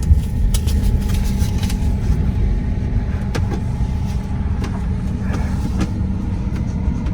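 Steady low rumble heard from inside a car as it is guided onto an express car wash's conveyor rail, with scattered light clicks and ticks.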